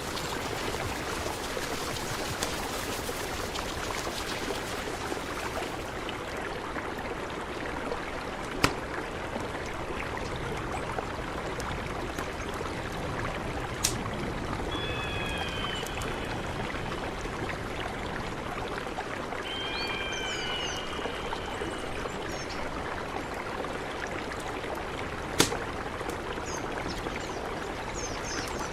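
Mountain river flowing steadily, an even rush of water. Three sharp clicks stand out, and two short bursts of high chirps come about halfway through.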